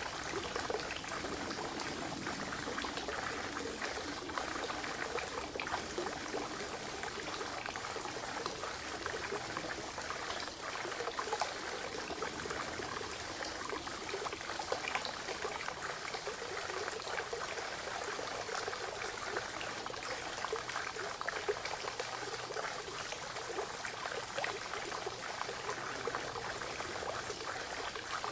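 Spring water trickling and splashing steadily into a forest pond, a continuous even babble.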